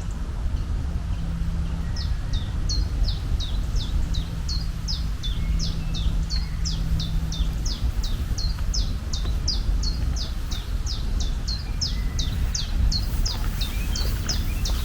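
A bird calling a rapid series of short, falling chirps, about three a second, starting about two seconds in, over a steady low rumble of outdoor noise.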